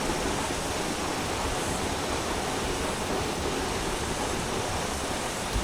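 Hunua Falls waterfall: a steady rush of falling water.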